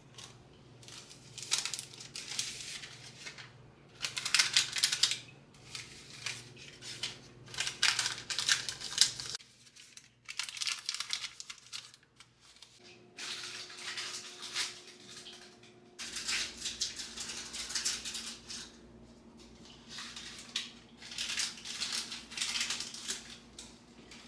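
Repeated bursts of crinkling and rustling from something being handled, each lasting a second or two.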